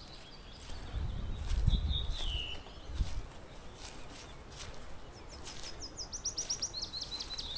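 Songbirds singing: a short high whistled phrase about two seconds in, then a fast run of rapid high notes in the last two seconds. Low rumbling and a thump sound in the first few seconds.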